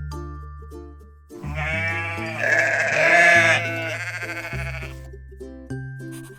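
A sheep bleating once, a long wavering baa of about three and a half seconds that starts just over a second in, over light background music with plucked notes and a bass line.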